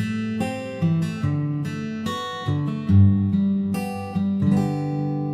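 Acoustic guitar playing a slow instrumental melody over plucked and strummed chords, finishing on a last chord left to ring and fade.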